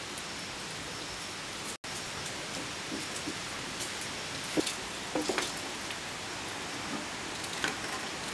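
Steady rain falling, an even hiss, with a few light taps and clicks about halfway through and near the end.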